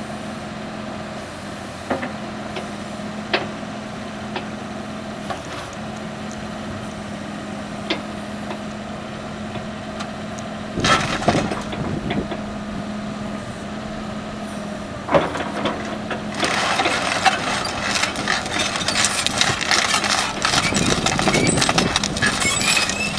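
Kubota KH-170L mini excavator's diesel engine running steadily, with occasional single clanks. About two-thirds of the way in, a louder, dense metallic clatter joins it and carries on to the end.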